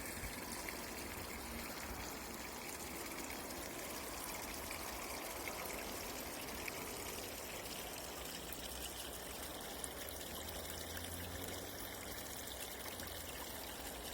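Water from a forest spring trickling and running steadily.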